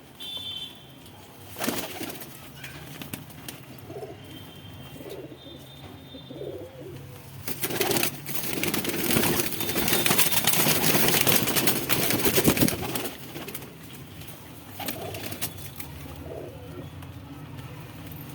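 Madrasi pigeons cooing, low and repeated. From about seven to thirteen seconds in, a loud rustling, scuffling noise covers the cooing.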